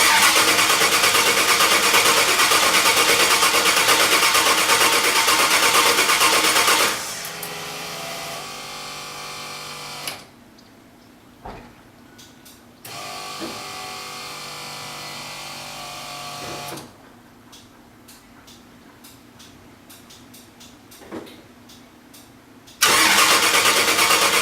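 Engine cranked on its starter for about seven seconds without catching, then two stretches of a quieter steady whir, and cranking again near the end. It does not fire because fuel is not reaching it, with air in the fuel line.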